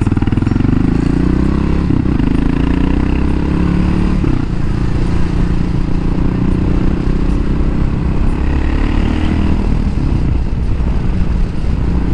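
Suzuki DR 650 RS motorcycle's single-cylinder engine pulling away, its pitch rising twice and dropping back between as it shifts up, then running steadily at cruising speed.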